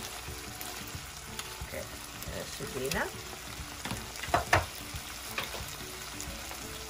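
Chicken cubes, peppers and tomato sauce sizzling steadily in a frying pan as tomato puree is spooned in. Two sharp clicks about four and a half seconds in are the loudest sounds.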